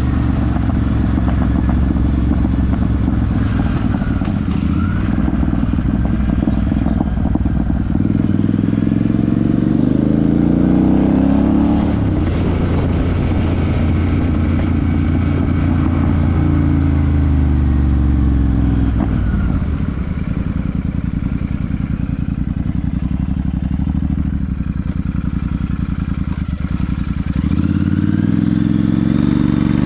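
Royal Enfield Super Meteor 650's parallel-twin engine and exhaust under way, the engine note climbing and dropping several times as the bike accelerates and slows, and picking up again near the end.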